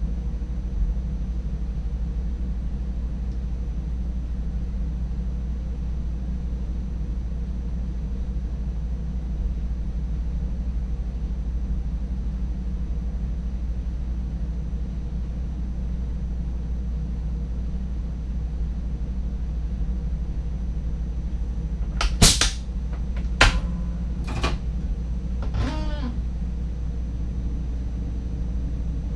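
Steady low rumble of an NS DDZ double-deck electric train running, heard inside the driver's cab, with a faint high steady whine over it. About 22 seconds in, four sharp knocks with a brief ringing come in quick succession over about four seconds.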